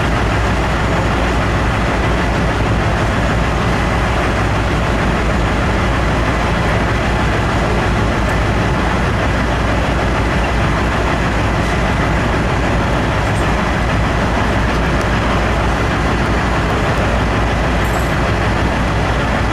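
Large Komatsu mining haul truck running: a loud, steady drone with a low hum underneath and no change in pitch.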